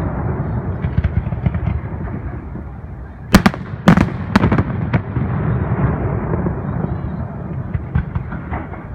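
Fireworks display: a continuous crackling rumble of bursting shells, with a quick run of four sharp, loud bangs about a third of the way in.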